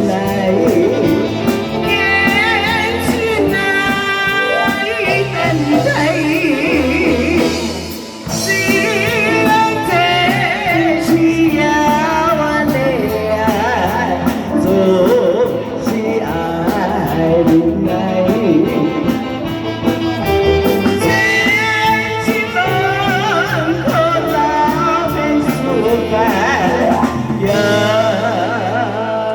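A singer performing a song over instrumental backing music, the vocal line carrying on throughout with a short dip in the music about eight seconds in.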